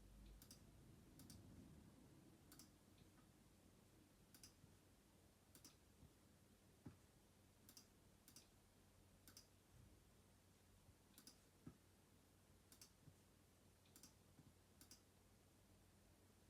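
Faint, sharp small clicks about a dozen times at irregular intervals, roughly one a second, over a low hum: small hand tools and parts being handled while a smartphone is taken apart.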